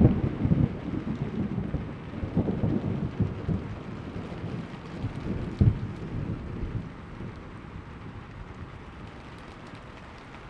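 Thunder rumbling over steady rain. The rumble is loud at the start, with a couple of sharp cracks a few seconds in, then dies away, leaving only the rain.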